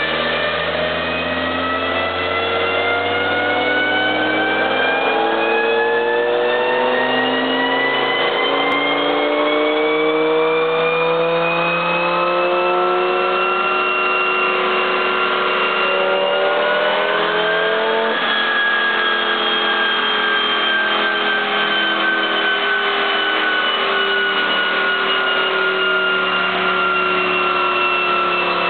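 Turbocharged Volvo redblock four-cylinder making a pull on a chassis dyno, the rear wheel driving the roller: the revs climb steadily for about fifteen seconds, rise a little more a few seconds later, then slowly fall as the engine comes off the pull.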